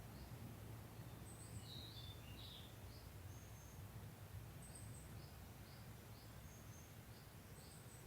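Faint outdoor morning ambience: small birds chirping in short, high, repeated notes, with a brief burst of calls about two seconds in, over a steady low hum.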